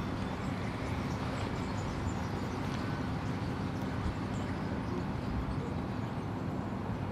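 Steady low outdoor rumble with no clear events, typical of background noise on a riverbank.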